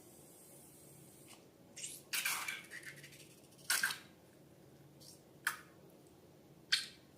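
Slime and balloons being handled, making a few short wet, squishy sounds; the longest comes about two seconds in and lasts under a second.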